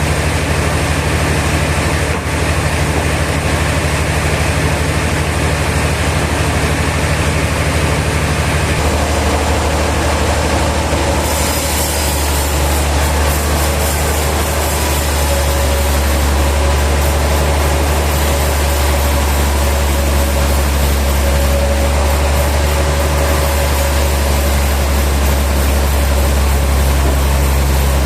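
Sawmill machinery running steadily with a low engine hum. The hum's low notes shift about a third of the way in, and a high hiss joins soon after.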